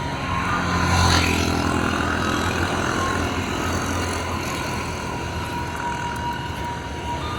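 A motor vehicle passing close by on the road, its engine rumble loudest about a second in and then slowly fading.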